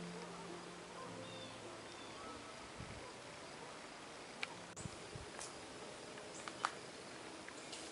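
Faint outdoor ambience with a few short, sharp clicks or ticks in the second half, after the last held notes of background music die away in the first second or so.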